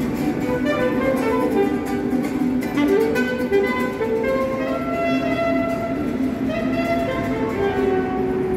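Instrumental background music with held, changing notes, over the steady rumble of a metro train in motion.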